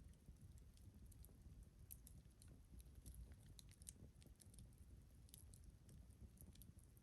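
Campfire crackling faintly: scattered small pops and snaps, several a second, over a low steady rumble.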